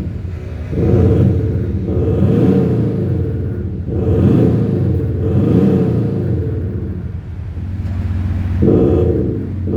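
BMW X6 30d's diesel straight-six revved in a series of short blips, each rising and falling in pitch, with a lull about three-quarters of the way through. Its exhaust note is tuned by a JSR Just Sound Booster.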